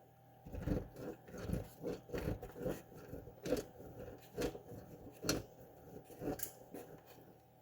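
A block of cheese being grated by hand on a cheese grater: about fifteen short scraping strokes, roughly two a second, stopping about a second before the end.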